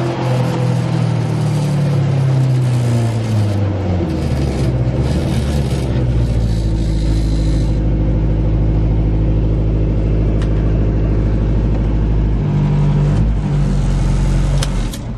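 Fiat 126 race car's 1,300 cc engine heard from inside the cabin. The revs fall over the first few seconds, then hold a steady low drone, and change again near the end as the driver reaches for the gear lever.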